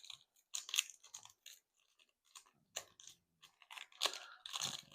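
Foil wrapper of a Topps Chrome trading-card pack crinkling in short, irregular crackles as it is opened by hand.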